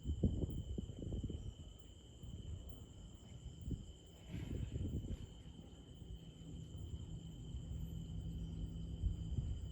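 Insects trilling steadily at two high pitches, over irregular low gusts of wind buffeting the microphone. A faint low hum joins in during the second half.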